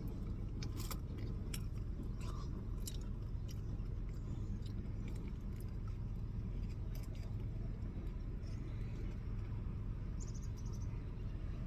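Someone chewing food, with a few sharp crunching clicks in the first few seconds, over a steady low hum.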